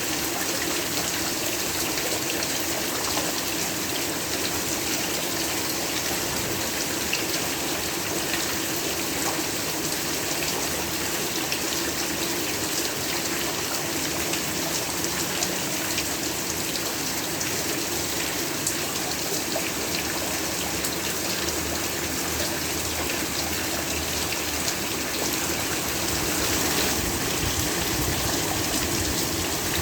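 Heavy rain falling steadily, an even hiss of countless drops, growing a little louder near the end.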